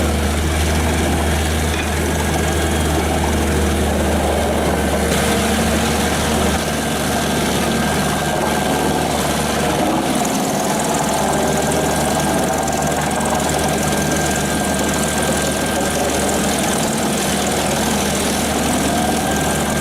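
Large tracked drum wood chipper's Caterpillar C9 diesel engine running steadily, with a continuous heavy drone that eases slightly about six and a half seconds in.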